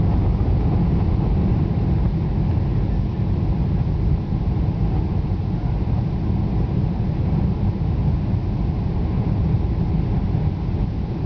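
Boeing 747 cabin noise during the landing approach: a steady, even rumble of engines and airflow, heard from inside the passenger cabin.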